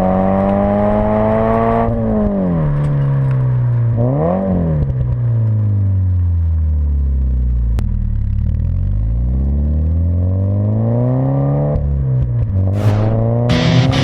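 Scion FR-S / Subaru BRZ 2.0-litre flat-four exhaust note through a Hooker Blackheart axle-back exhaust, the revs rising and falling. It is held high at first, drops, blips once, sinks slowly over a few seconds and climbs again, with another rise near the end.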